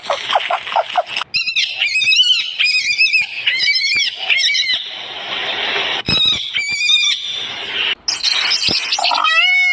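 An animal squealing in a series of short, high-pitched, wavering calls, broken by stretches of hissing noise.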